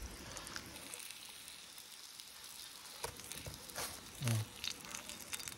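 Food sizzling as it fries over a campfire, a steady hiss, with a few sharp clicks as the pieces are turned.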